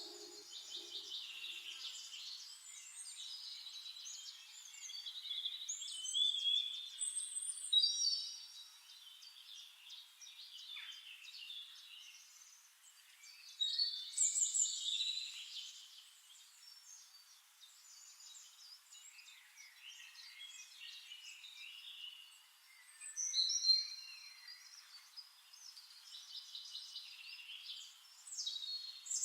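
Several birds singing and chirping, a mix of different short calls and warbling phrases, with a few louder bursts.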